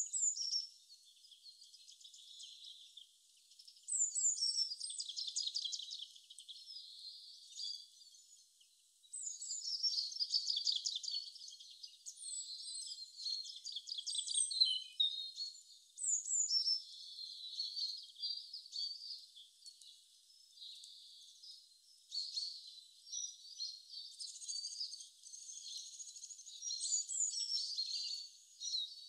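Small songbirds chirping and trilling in bursts of a few seconds, all high-pitched with nothing in the low range.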